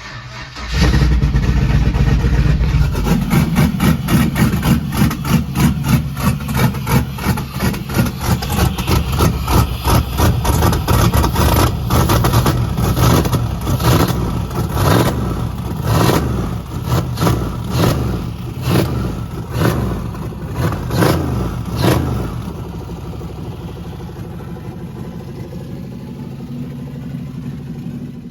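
Turbocharged LS V8 being cranked on the starter in a first start attempt on a freshly fitted fuel system, chugging in fast uneven pulses as it tries to fire without settling into an idle; the pulsing stops about three-quarters of the way in and gives way to a steadier, quieter whir.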